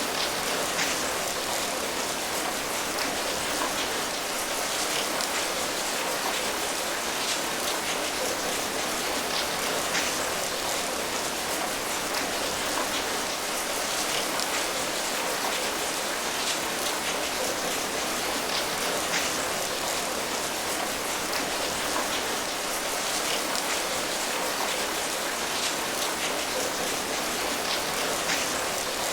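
Steady rain falling, an even hiss with the patter of individual drops scattered through it.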